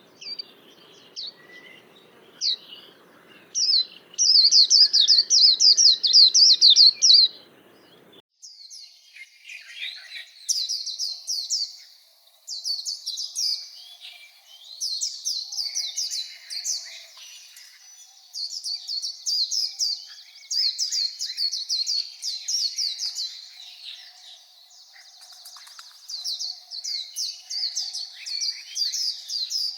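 White-eye (vành khuyên) singing: rapid, high, twittering song phrases a couple of seconds long, repeated with short pauses, with softer chirps in between. A low background hum stops suddenly about eight seconds in.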